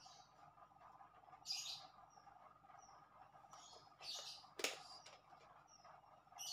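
Faint bird chirps: short high calls every second or so, with a few thin whistled notes between them, over a low steady hum. A single sharp click sounds about two-thirds of the way through.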